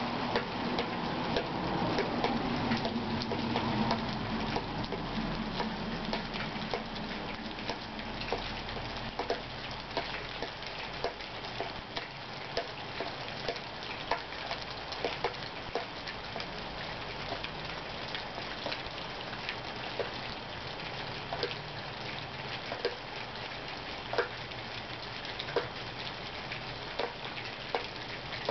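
Steady rain falling, with scattered individual drips tapping irregularly, about one or two a second. A low rumble fades out over the first few seconds.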